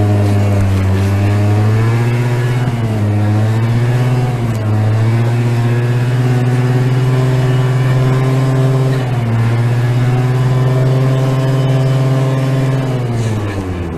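Honda VTR1000F's V-twin engine running under way at a steady pitch, dipping briefly a few times as if on gear changes, with the note falling away near the end.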